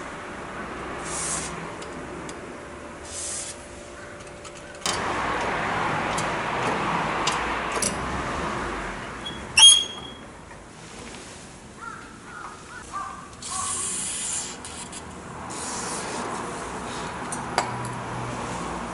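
Mechanic's workshop work noises: tools and parts being handled, with scattered clicks and rustling, and a sharp metallic clink that rings briefly about ten seconds in.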